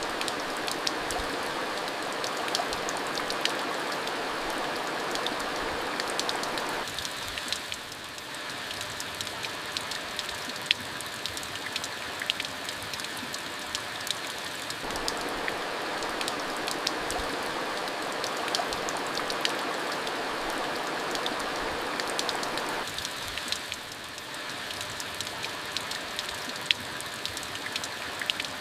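Steady rain falling, with many scattered sharp drop hits over an even hiss. A fuller rushing layer of the rain drops out about a quarter of the way in, comes back about halfway through and drops out again near the end.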